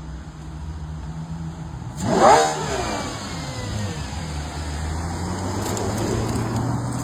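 Car engine running steadily, with a brief louder surge of engine sound about two seconds in.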